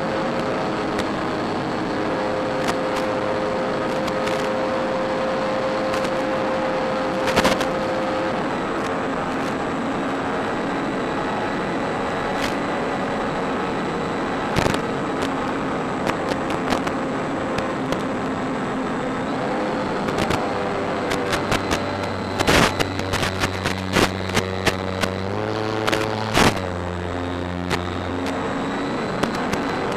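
Electric motor and propeller of a Durafly Bf 109 E-4 RC plane in flight, under a steady rush of wind noise. The motor's whine holds, then shifts in pitch with throttle. Sharp crackles and clicks come through, thickest in the last third.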